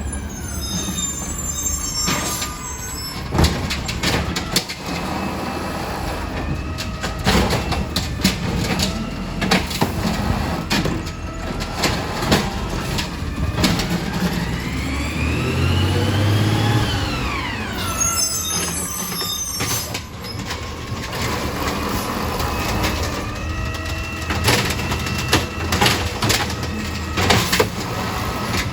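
Garbage truck at work: its diesel engine runs under repeated clanks and knocks, with hisses of air at the start and about two-thirds in. In the middle the engine note rises and then falls.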